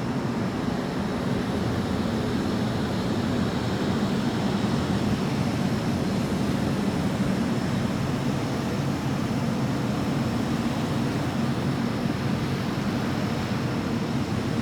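A steady, loud drone: an even rushing noise with a low wavering hum underneath, unchanging throughout.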